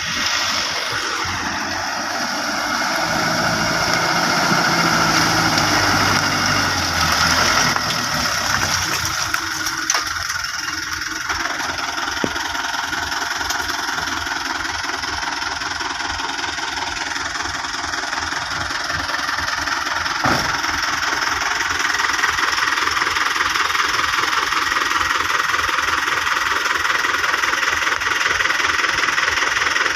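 A vehicle engine running close by, its pitch shifting up and down as it works for the first several seconds, then settling into a steady, knocking clatter.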